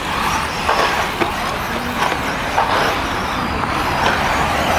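Electric RC buggies running on the race track: a steady noisy mix of motors and tyres, with a few short knocks.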